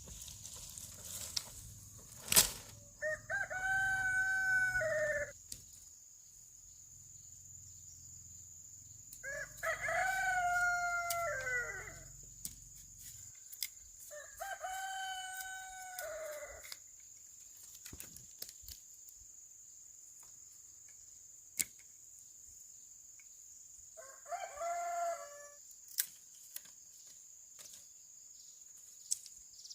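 A rooster crowing four times, each crow about two seconds long, over a steady high-pitched whine. A single sharp click comes about two seconds in.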